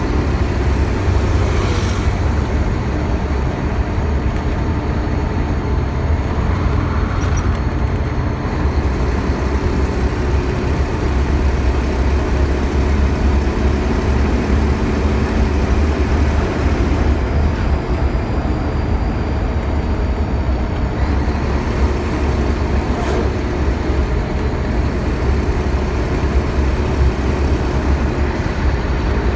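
Scania K112CL bus's six-cylinder diesel engine running with a steady deep hum.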